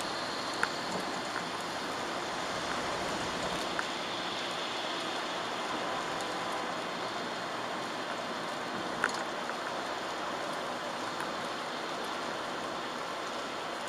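Steady hiss of rain and tyres on a wet road, heard from inside a moving car, with a few sharp ticks scattered through it; the loudest tick comes about nine seconds in.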